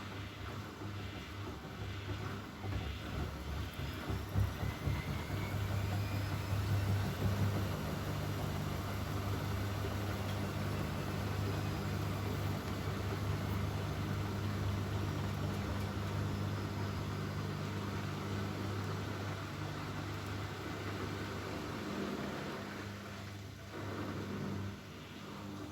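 Bosch Maxx WFL 248Y washing machine's motor driving the drum up in speed, a steady hum with a whine that rises slowly over several seconds, then easing off about three seconds before the end.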